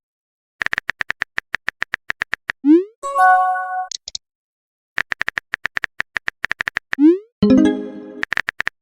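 Phone chat sound effects: rapid keyboard typing clicks, about eight a second, then a short rising swoosh as a message is sent, then a short notification tone. The sequence repeats, with another run of typing, a swoosh and a tone near the end, and typing clicks again after it.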